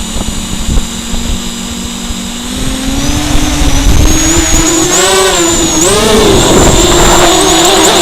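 ZMR250 racing quadcopter's brushless motors and propellers running with a steady whine. The pitch climbs gradually after a couple of seconds and wobbles up and down about five to six seconds in as the throttle changes.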